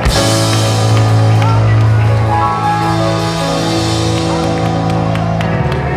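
Gospel worship band playing loudly: a cymbal crash right at the start, then long held chords over bass and drums.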